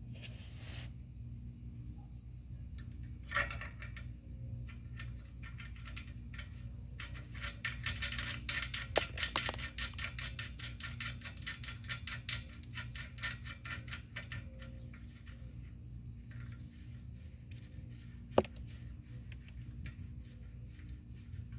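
Small metal hardware and hand tools clicking and rattling, with a dense run of rapid clicks around the middle and a single sharp metallic click near the end, over a steady low hum.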